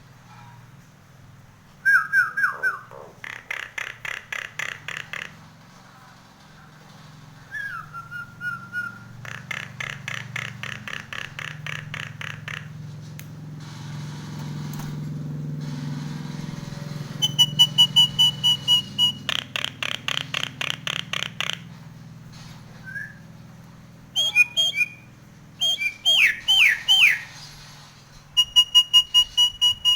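Nias hill myna singing: loud whistled notes, some sliding down in pitch, and several fast runs of repeated notes at about five a second, mixed with mimicked calls.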